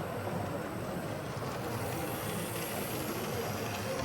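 Model trains running on an exhibition layout, a steady rumble against the general hum of a busy hall, with no distinct knocks or clicks.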